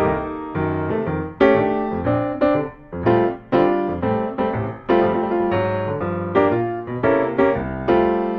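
Background piano music, with notes and chords struck and left to fade.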